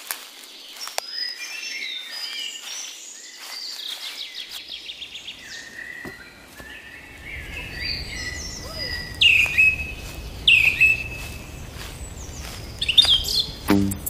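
Forest birds singing and calling: a fast high trill about four seconds in, then two loud down-slurred whistles, each settling on a held note, about nine and ten and a half seconds in. Scattered light clicks of footsteps on the leaf-littered trail run through the first half, and a low steady rumble comes in about halfway.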